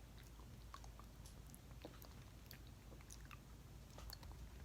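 Faint chewing of a maple syrup candy, with scattered small clicks.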